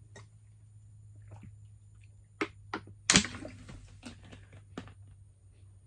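A few scattered sharp clicks and knocks, with one louder thunk about three seconds in, over a low steady hum.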